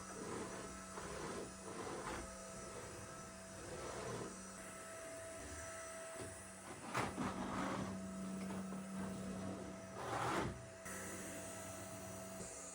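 A steady machine hum with several brief clatters and rustles of household handling, the loudest about seven and ten seconds in.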